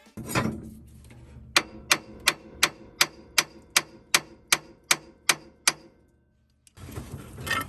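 Sharp metallic clicks, about a dozen evenly spaced at roughly three a second, preceded by a single knock just after the start.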